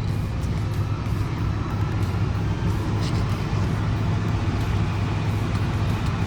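Diesel semi-truck engine running with a steady low hum.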